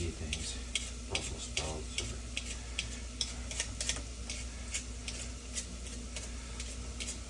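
Food frying in olive oil in a saucepan on the stove, sizzling with many small irregular pops and crackles.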